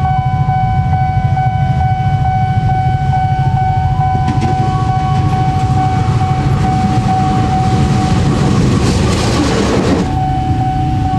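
Diesel-electric locomotive engine running with a steady low rumble as the train approaches, while the level-crossing warning alarm sounds a steady repeating tone. About nine seconds in, a hissing rush of noise swells and then cuts off suddenly.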